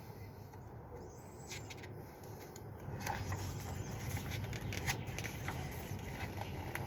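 Faint outdoor background noise with a few soft clicks and rustles, getting a little louder about halfway through.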